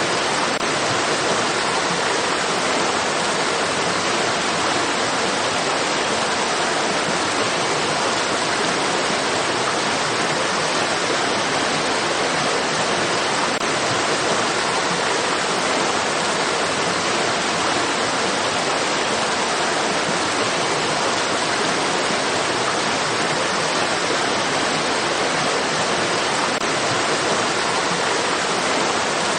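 Stream water rushing steadily, an even, unbroken hiss with no changes.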